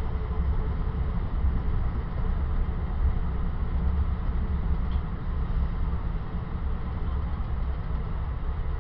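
Steady low rumble of a passenger train's wheels running on the rails at speed, heard from inside the leading ex-Metroliner cab car.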